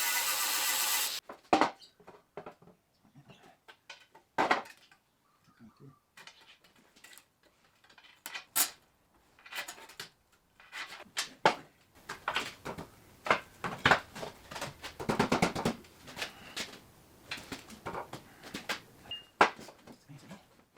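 A loud steady rasping noise cuts off about a second in. Then come scattered metal clinks, knocks and scrapes as steel pieces are handled and set down.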